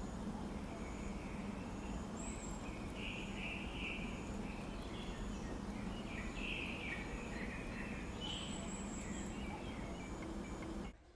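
Faint, short bird chirps over steady outdoor background noise with a low hum and thin high notes. The background drops away abruptly near the end.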